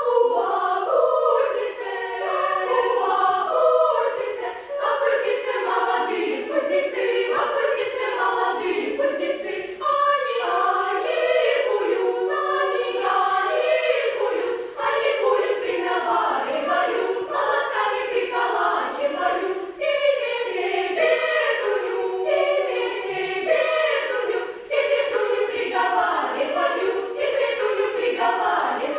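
Children's choir singing, cutting in abruptly at the start.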